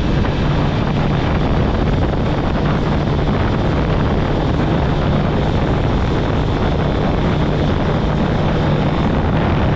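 Kawasaki ZX-10R's inline-four engine running at steady revs while riding, mixed with wind noise on the microphone.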